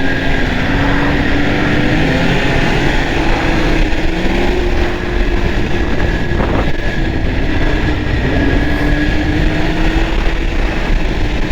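Arctic Cat Thundercat snowmobile running at trail speed, its engine tone holding steady and wavering only slightly in pitch, with a steady higher whine above it and heavy wind noise on the microphone.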